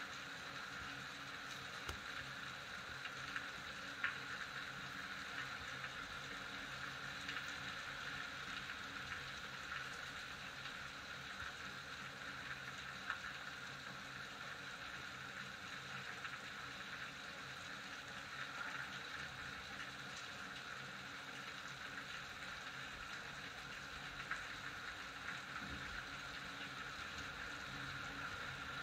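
Steady rain, an even hiss with scattered louder drops ticking, one sharper tick about four seconds in.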